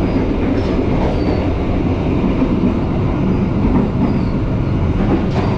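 Passenger train running at speed, heard from inside the carriage: a steady rumble of wheels on the rails.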